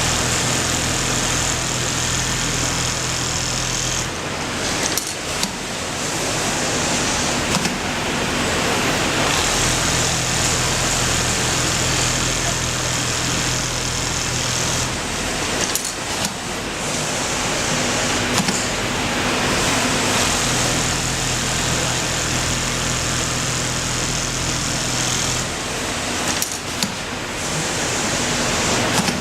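Automatic pattern sewing machine running in three stretches of about five seconds each, with a steady hum and high whir. Between the runs come a few seconds of sharp clacks and knocks.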